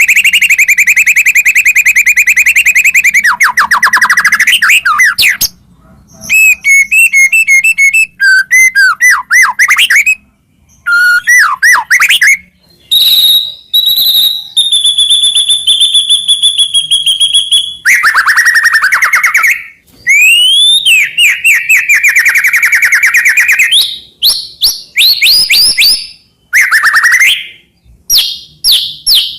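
White-rumped shama (murai batu) singing a long, varied song: fast rattling trills, rising and falling whistled sweeps, high held whistles and rapid repeated notes, broken by short pauses.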